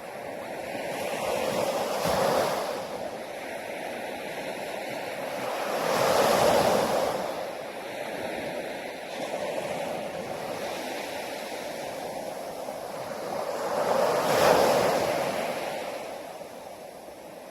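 Sea waves breaking on a beach, the surf swelling and falling away in three slow surges, the loudest near the end, over a steady wash.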